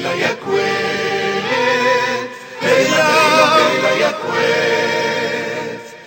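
Arabic children's song with a choir of voices holding sustained, wavering notes over the accompaniment, in phrases that end with a fade near the end.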